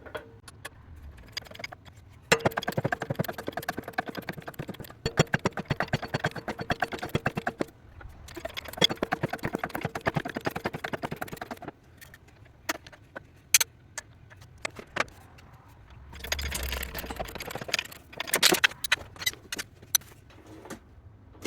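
Air-powered shop press pumping in two runs of rapid chattering strokes as it drives old bushes out of a lathe's output housing, followed by scattered metallic clicks and clinks.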